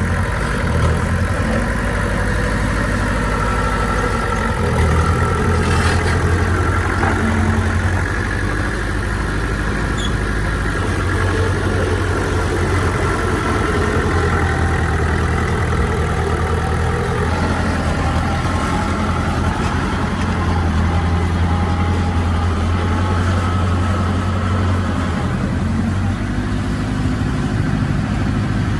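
Heavy earthmoving machinery's diesel engine running steadily with a deep, low hum that swells and eases a little in level.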